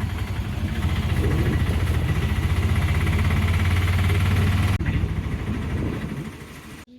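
Auto-rickshaw engine running steadily with a fast, even low throb and road noise during a ride. It eases off about five seconds in and then drops away.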